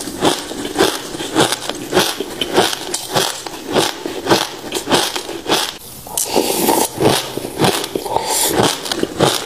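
Close-miked crunching of passion fruit seeds being bitten and chewed: a quick, steady run of crisp crunches, about three a second.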